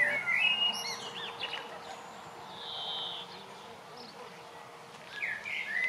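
Garden songbirds singing and chirping, with clusters of quick chirps in the first second and again near the end and a short whistled note about three seconds in, over a faint steady hum.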